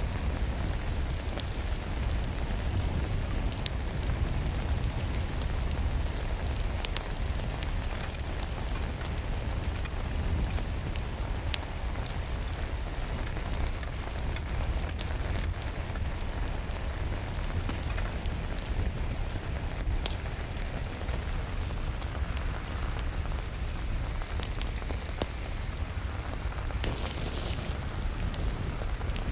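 Steady rain, with a low rumble beneath and scattered sharp crackles from a wood fire in a fireplace.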